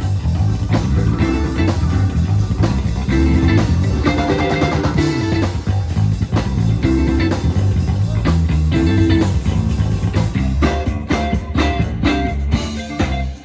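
Live Chicago blues band playing, with a prominent electric bass line over a drum kit. About ten seconds in, the drum hits come sharper and thicker.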